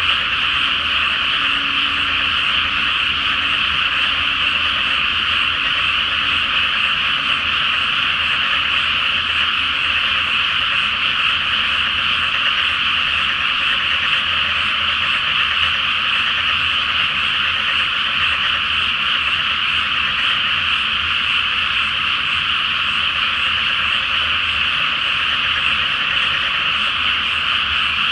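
Dense chorus of many frogs calling at once in a flooded rice paddy, a loud, steady, unbroken mass of croaking that does not let up.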